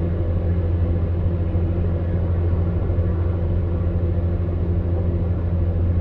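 Electric fan heater running steadily: a monotonous low motor hum under the even rush of blown air.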